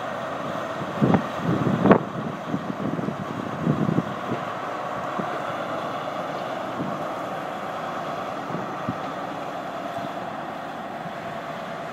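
A train at the station running with steady, loud mechanical noise. There are several heavy knocks in the first four seconds, and the noise eases slightly near the end.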